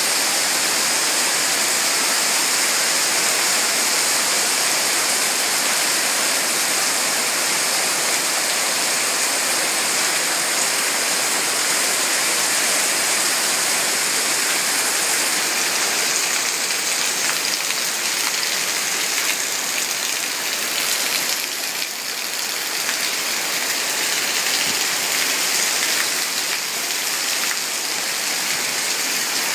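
Heavy rain falling steadily, a dense hiss of water with a brief dip in loudness about three-quarters of the way through.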